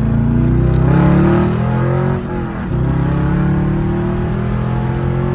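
Chevrolet C5 Corvette's LS1 V8 with straight pipes at full throttle, heard from inside the cabin: the revs climb in second gear, drop briefly about two seconds in as the shifter is slammed into third, then the engine pulls again. The power-shift into third goes in cleanly near redline, showing that the new shifter has cured the old lockout into third.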